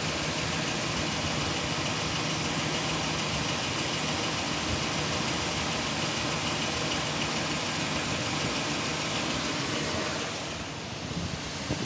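Chevrolet 6.0 L Vortec V8 idling with a knock, which the owner puts down to a rod or a lifter rather than piston slap. The engine runs on 5W-30 synthetic oil. The sound briefly gets quieter and duller near the end.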